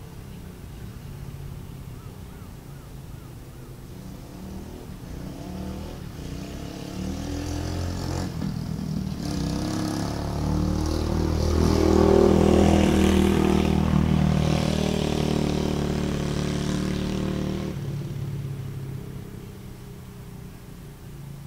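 Dirt bike engine running, growing louder to a peak about halfway through and then fading away again.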